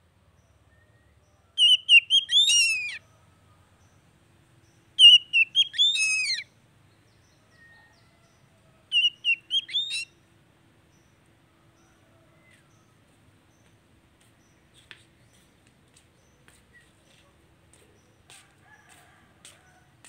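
Oriental magpie-robin (kacer) singing: three short, high, warbling whistled phrases a few seconds apart, followed by faint scattered clicks near the end.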